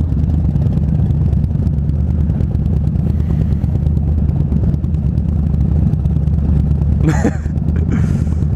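Motorcycle engine running at a steady, unchanging speed, a low engine note. A brief voice cuts in about seven seconds in.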